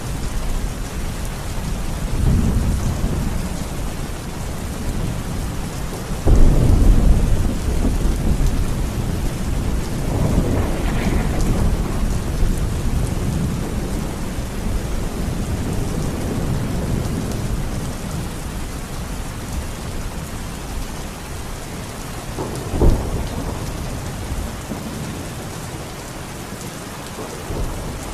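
Heavy rain falling steadily during a thunderstorm, with rolling thunder. A loud thunderclap about six seconds in rumbles on for a few seconds, more rumbles follow, and a short, sharp crack of thunder comes a little over twenty seconds in.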